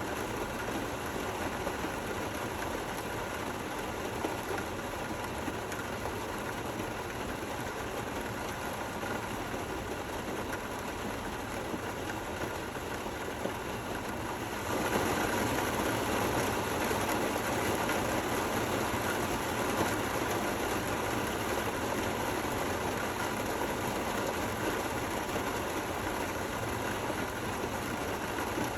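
Steady rain falling, an even hiss with a low rumble beneath. About halfway through it suddenly turns louder and brighter, and holds there.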